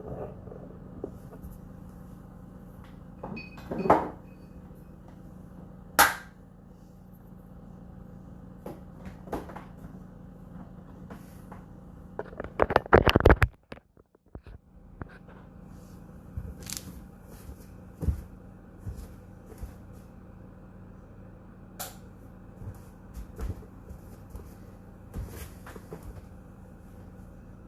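Whirlpool WFO3P33DLXUK dishwasher running its power-dry phase: a steady low hum with scattered clicks and knocks. A louder cluster of knocks comes about halfway through, and the hum drops out for a moment just after.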